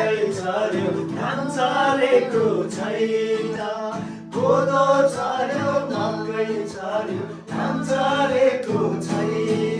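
Male voices singing a song in long, sustained phrases over a steady instrumental accompaniment.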